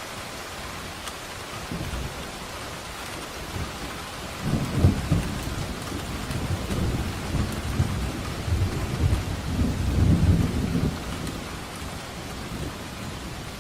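Steady rain falling, with a long rolling rumble of thunder that builds about four seconds in, swells again near ten seconds, and fades away shortly after.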